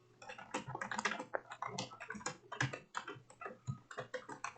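Fast typing on a computer keyboard: keys clacking in quick, irregular succession, several strokes a second.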